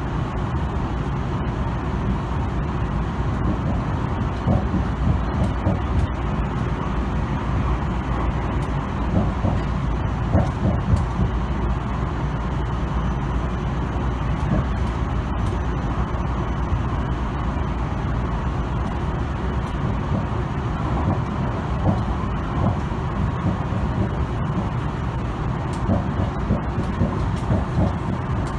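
Running noise of a Tobu Tojo Line express train at speed, heard inside the passenger car: a steady low rumble of wheels on rail with a few faint clicks.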